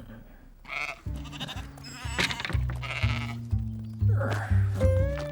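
Cartoon sheep bleating in several short calls over background music, whose steady bass notes come in about a second in.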